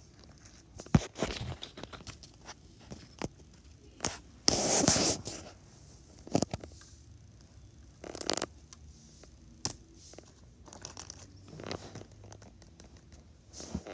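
Close handling noises: scattered clicks, scratches and rustling, with one louder tearing rustle lasting most of a second about four and a half seconds in.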